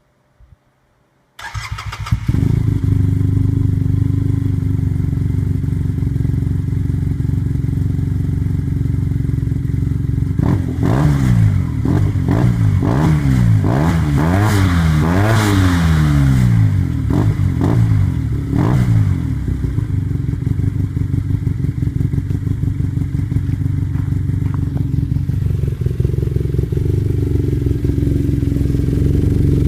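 2015 Arctic Cat Wildcat Sport's engine, through a Speedwerx stainless header and performance muffler, starts up abruptly about a second and a half in and settles into a loud idle. From about ten seconds in it is blipped up and down in a series of quick revs for around eight seconds, then it returns to idle.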